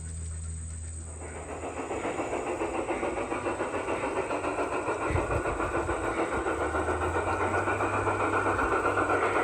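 Garden-scale model train running along its track, growing louder from about a second in as it comes closer, with a fast, even rhythmic clatter from the wheels on the rails.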